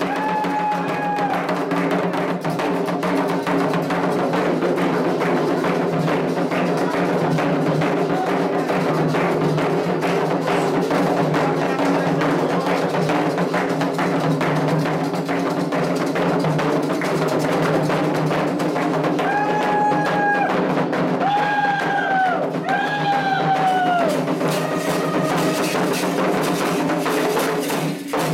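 Candomblé ceremonial drumming: atabaque hand drums and a struck bell keep up a dense, steady rhythm, with a few short high held calls over it about twenty seconds in.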